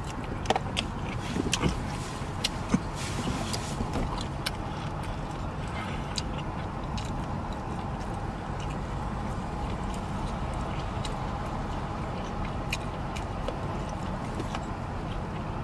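Close-miked chewing of food, with scattered short wet mouth clicks and smacks, over a steady low hum inside a car's cabin.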